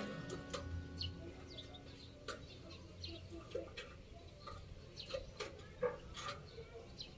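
Faint scattered bird chirps and short calls, a few every second.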